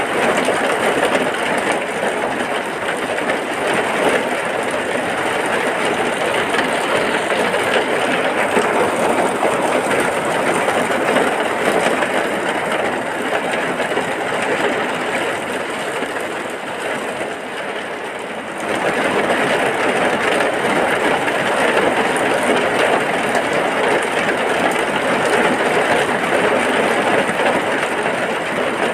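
Heavy rain falling steadily, a dense even hiss of drops with no single drops standing out. It eases slightly for a couple of seconds and then comes back at full strength abruptly, about two-thirds of the way through.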